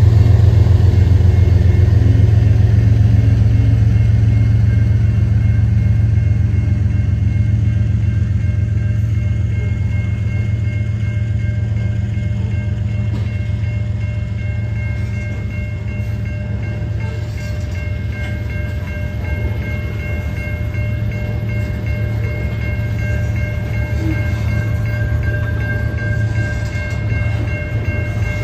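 Covered hopper cars of a freight train rolling past: a steady low rumble of wheels on rail that eases a little as the locomotives draw away. Steady high-pitched tones come in about halfway through.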